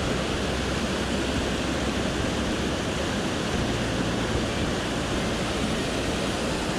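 Swollen mountain stream rushing steadily over rocks, running high after recent rain.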